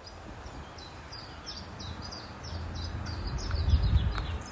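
A songbird singing a run of short, quickly repeated high notes, each sliding downward, over a low rumble that grows louder in the last second and a half.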